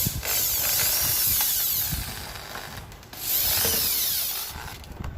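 Drill used as a power screwdriver, run in two bursts of about two seconds and a second and a half, backing out the screws that hold an evaporative air cooler's casing together.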